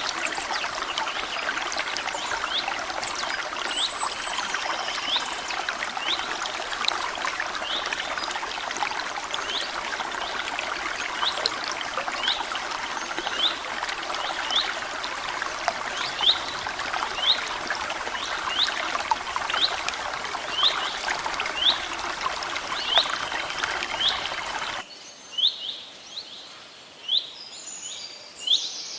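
Water flowing and trickling steadily, with a bird repeating a short call about once a second over it. About 25 seconds in, the water sound cuts off abruptly, leaving quieter scattered bird chirps.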